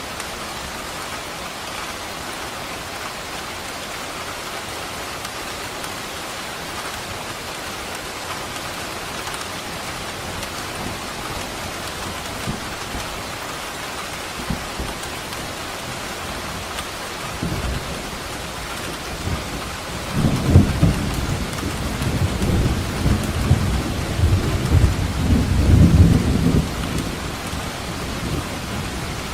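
Steady heavy rain falling, with a long roll of thunder that builds about two-thirds of the way through, rumbles loudest for several seconds and fades near the end.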